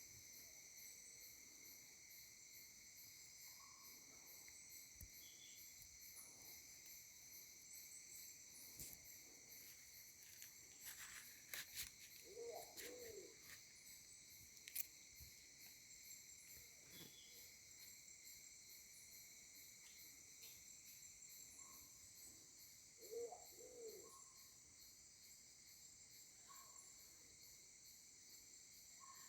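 Faint, steady chorus of crickets or cicadas buzzing in several high pitches, with a bird giving a short low call twice, about ten seconds apart, and a few light clicks.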